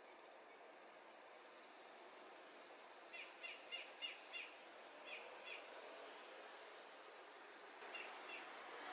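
Faint outdoor hiss with small songbirds giving short, quick chirps: a run of five about three seconds in, then two pairs a little later.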